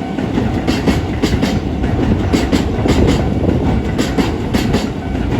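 Keisei electric train passing at speed, its wheels clacking over the rail joints in quick clusters of clicks over a steady rumble.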